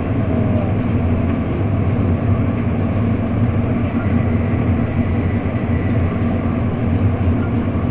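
N700 series Shinkansen running at speed, heard inside the passenger cabin: a steady, loud rumble and hiss of the train on the track.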